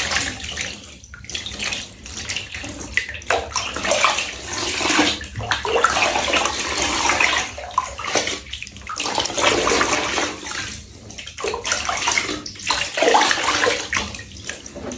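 Running water splashing in a tub while a cat is bathed, the rush swelling and dipping unevenly.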